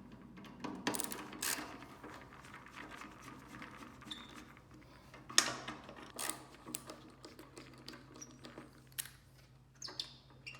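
Irregular small clicks, taps and knocks of hard parts being handled, with one sharp click about five and a half seconds in.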